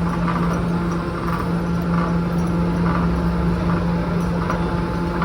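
Truck engine running at a steady speed: a constant drone that holds one pitch throughout, with a few faint light clicks over it.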